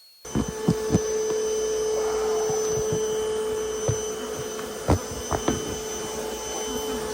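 A vacuum motor starts running abruptly, with a steady drone. Scattered sharp knocks and clicks sound over it.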